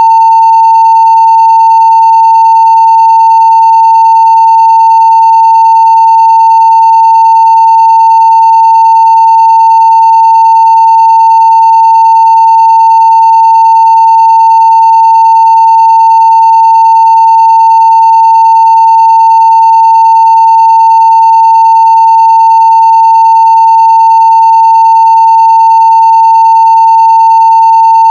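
A 900 Hz sine-wave test tone at full scale (0 dB), loud, steady and unbroken, with no change in pitch or level, and faint higher overtones above it.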